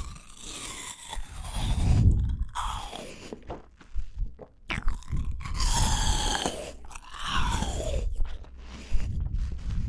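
Close-miked chewing and crunching of fresh fruit in the mouth, in several bursts with short pauses between them.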